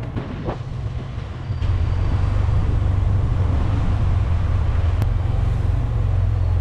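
Motorcycle engine running at low speed with a steady low rumble, getting louder about one and a half seconds in.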